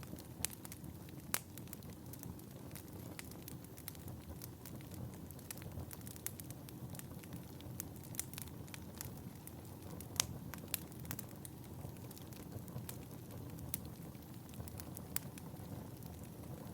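Wood fire burning in a fireplace: a steady low rumble of flames with irregular crackles and a few sharper pops, the loudest about ten seconds in.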